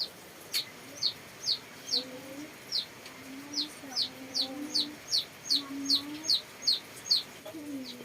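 Chickens: chicks peeping steadily in short, high, falling chirps, about two to three a second, with a few lower drawn-out hen calls underneath.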